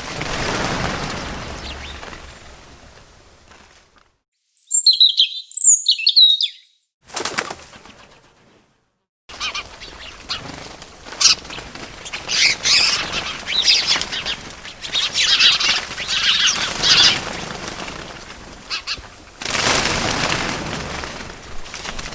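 Birds: a whoosh of wing flapping that fades out, a few sharp high chirps, then a long run of busy chirping and twittering, and another flutter of wings near the end.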